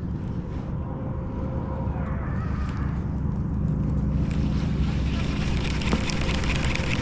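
Wind buffeting the microphone in a steady low rumble, with a crackling rustle building from about four seconds in.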